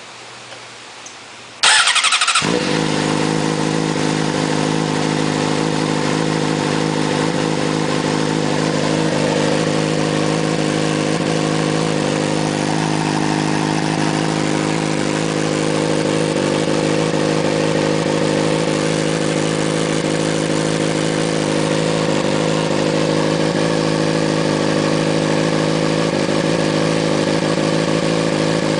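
2006 Honda CBR600RR's inline-four engine with a custom stainless GP-style slash pipe exhaust, cold-started: a brief crank about two seconds in, then it catches and settles into a steady idle.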